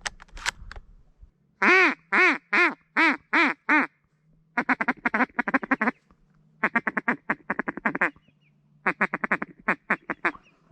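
Loud duck quacking in a mallard-like pattern: six separate quacks, each falling in pitch, about two seconds in, then three quick runs of rapid chattering quacks.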